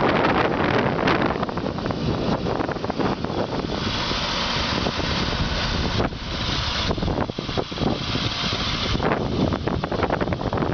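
Fuel truck driving with its engine running, and wind buffeting the microphone. A steady high hiss joins in from about four seconds in, drops out briefly, and stops about nine seconds in.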